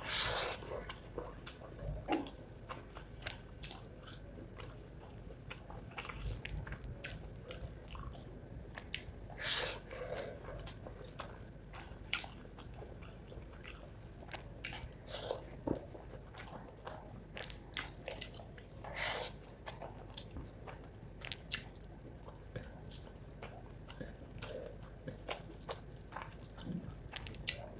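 Close-miked eating: a person chewing and biting mouthfuls of rice and spicy chicken liver, with many small mouth clicks and a few louder smacks spread through.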